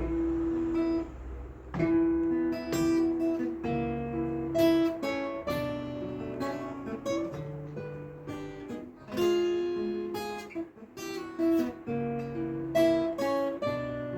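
Acoustic guitar playing the instrumental introduction to a song, a steady run of plucked notes and chords.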